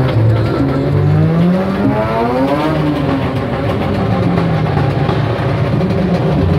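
Car engine revving: the pitch climbs steadily for about two and a half seconds, then drops back down to a lower running speed.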